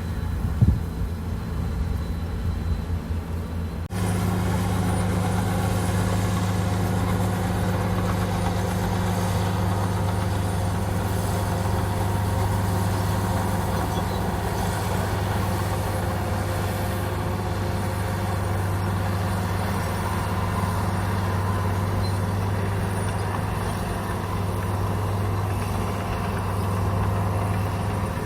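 Komatsu bulldozer's diesel engine running with a steady low drone. The sound changes abruptly about four seconds in, and a single sharp knock sounds just under a second in.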